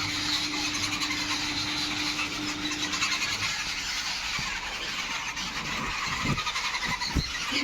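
Many small birds chirping and chattering rapidly and continuously, the alarm calls that birds raise on seeing a cat. A steady low hum runs under them for the first few seconds.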